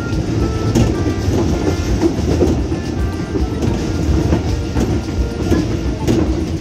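Passenger train running along the track, a steady rumble with wheel clatter, heard from aboard the train, with background music under it.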